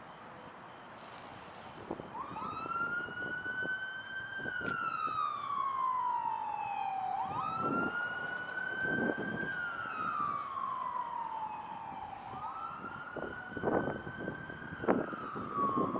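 Fire engine siren starting about two seconds in and wailing in slow cycles of about five seconds: a quick rise, a slow climb, then a long fall. A few sharp knocks sound near the end.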